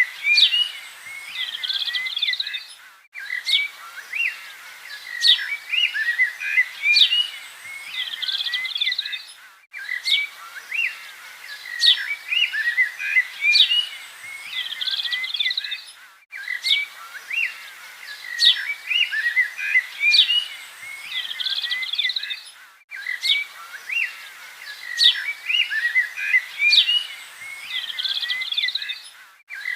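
Several small birds chirping and trilling over a faint outdoor hiss. The same few seconds of birdsong repeat as a loop, with a brief dropout about every six and a half seconds.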